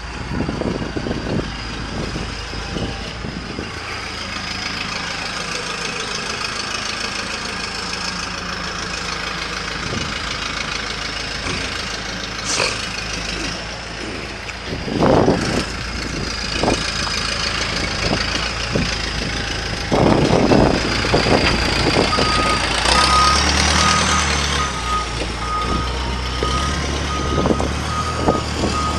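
A heavy vehicle's engine running, with a few knocks along the way. From near the end, a reversing alarm beeps at an even rate.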